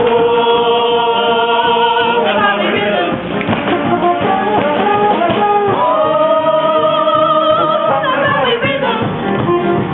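Ensemble of voices singing a musical-theatre number with instrumental accompaniment, holding one long chord at the start and another about six seconds in.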